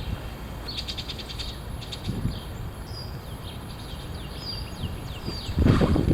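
Strong wind buffeting the microphone with a low rumble, under a series of short, high, falling bird chirps. A stronger gust hits the microphone near the end.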